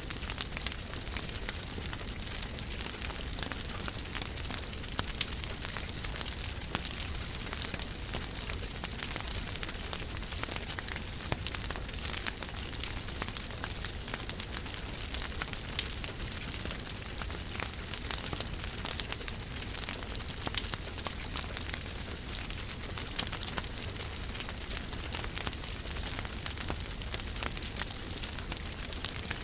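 Wood fire in a fireplace crackling steadily: a constant hiss full of small snaps, with a few louder pops.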